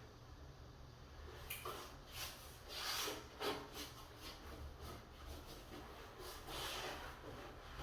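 Irregular rubbing and scraping strokes on a wooden door, with louder swells about a second and a half in, around three seconds, and near the end, over a low steady hum.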